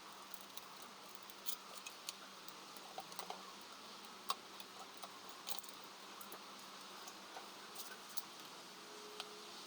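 Hand tools and small metal parts clicking and tapping now and then, over a faint steady hum.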